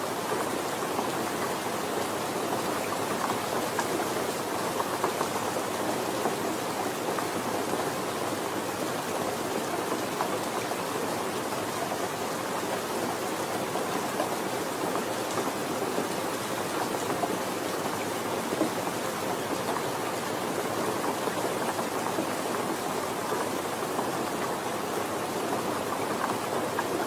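Steady rain falling, an even patter with no pauses or changes.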